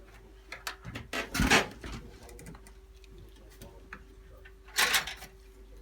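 Scattered small clicks and knocks from hands working on desktop PC components during assembly, with two short bursts of rustling handling noise, one about a second in and one near the end.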